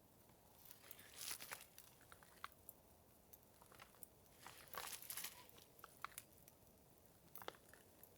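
Quiet crinkling and rustling in two short bursts, about a second in and again about five seconds in, with scattered small clicks and ticks between them.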